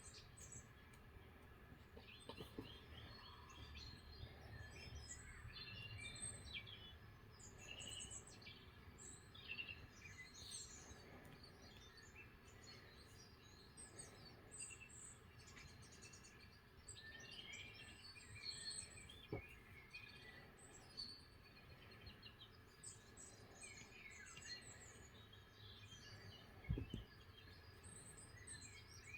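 Faint songbird chirps and trills from a bird video playing on a TV, many short calls overlapping throughout, over a low steady hum. A single knock stands out near the end.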